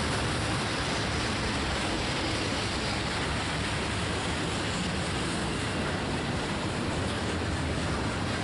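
Double-stack intermodal freight train rolling past, a steady even rush of steel wheels on rail under container-laden well cars.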